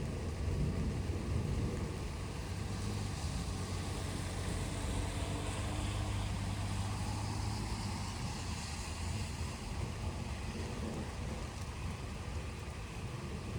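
Thunderstorm ambience: a low rumble that swells for several seconds in the middle, under a steady hiss of wind and rain.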